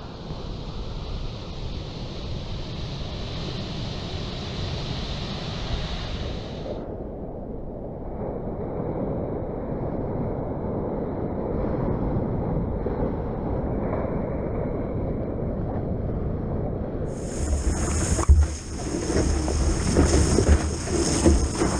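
Ocean surf and wind noise on an action-camera microphone, in several edited clips, steady at first and louder and gustier in the last few seconds.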